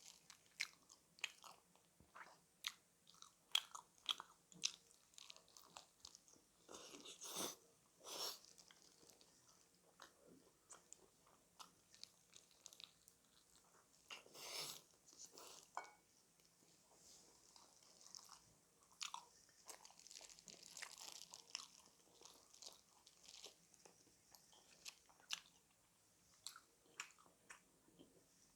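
Close-up eating sounds: crunchy bites and chewing of food, mostly short sharp crackles with a few longer crunches about 7, 8 and 14 seconds in.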